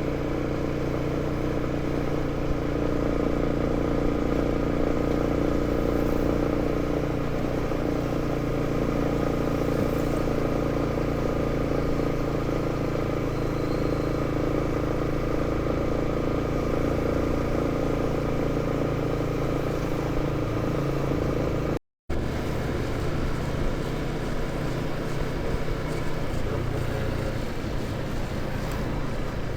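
Motorcycle engine running steadily under way, with road noise; the sound cuts out for a moment about two-thirds through and comes straight back.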